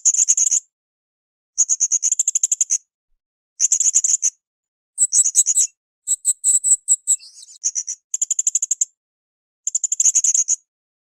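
Blue-crowned hanging parrot (srindit) calling: bursts of rapid, very high-pitched chattering notes about a second long, repeated every couple of seconds, with a more varied twittering phrase in the middle.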